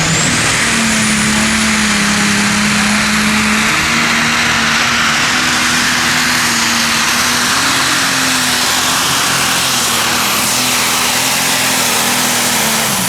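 Turbocharged pulling tractor running flat out under full load down the track, a loud steady engine sound with a high turbo whistle that climbs in pitch in the first second and then holds.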